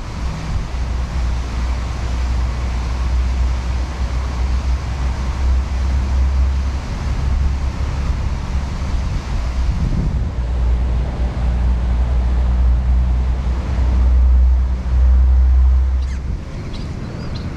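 Wind buffeting the microphone: a heavy, uneven low rumble over a steady hiss, swelling and easing, and dropping away shortly before the end.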